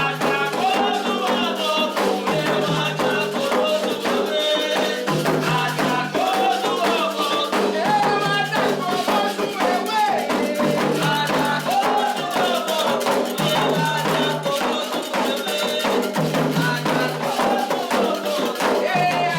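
Candomblé toque: voices singing a chant over continuous ritual percussion of drums and rattles, keeping a steady, unbroken rhythm.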